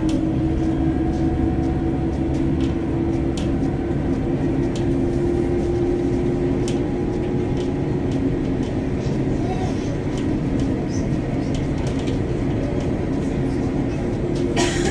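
Passenger train running at speed, heard from inside the carriage: a steady rumble of wheels on the track under a constant low hum, with a few faint clicks and a couple of sharper ones near the end.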